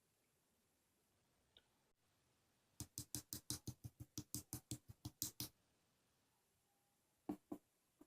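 A quick run of sharp clicks or taps, about five a second for nearly three seconds, then two more near the end.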